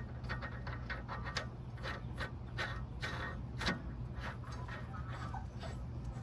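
Light, irregular clicks and rubbing of metal parts being handled during work on a car's front hub, with no steady rhythm.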